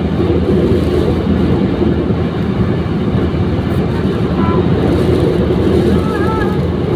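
Steady low rumble of a moving vehicle mixed with wind noise, with no breaks.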